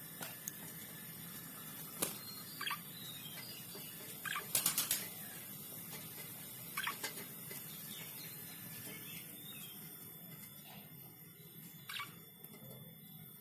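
Budgerigars giving a few short, falling chirps over a low hiss, with a quick rattle of clicks about four and a half seconds in.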